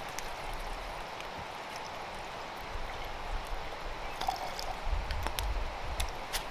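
Running water of a stream, a steady rushing. A few sharp clicks come in the second half, and a low rumble about five seconds in.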